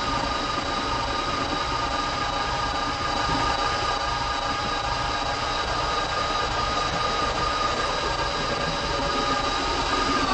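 R160B New York City subway train running at steady speed: a constant electric whine from the traction motors over the rumble of the wheels on the track.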